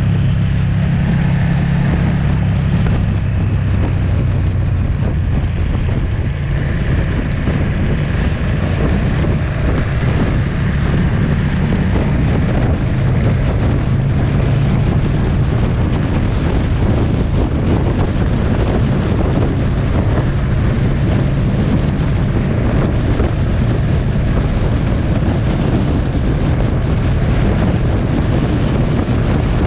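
Motorcycle engine running at a steady cruise, with wind buffeting the microphone.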